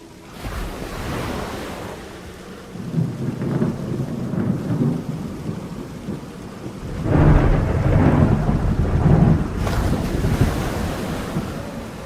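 Rain falling with thunder rolling over it: two long, deep rumbles, the second and louder one about seven seconds in.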